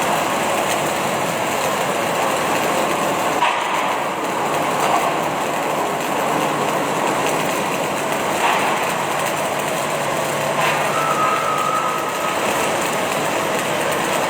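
Steady din of industrial machinery in a welding shop, with a few sharp knocks and a short steady tone about three quarters of the way through.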